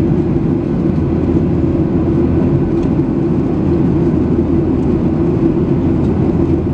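Jet airliner cabin noise in flight: a steady, even roar of engines and airflow, heaviest in the low range with a constant hum on top.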